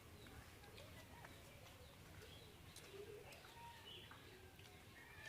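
Faint bird calls: short scattered whistles and chirps, with a low cooing call like a dove's.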